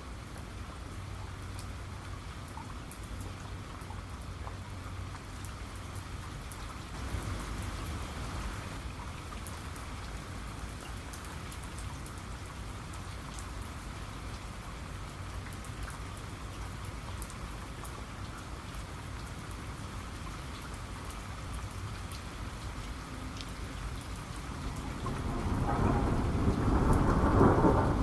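Steady rain falling, with scattered sharp drop ticks. Near the end a roll of thunder swells up and becomes the loudest sound.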